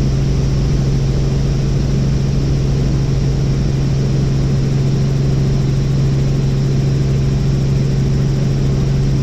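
Helicopter in steady flight: a loud, unchanging drone of rotor and engine with a strong low hum.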